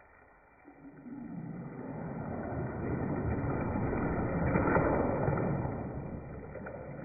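Bathwater sloshing and swishing as waves are stirred up in a bathtub. The sound swells over several seconds and then dies away.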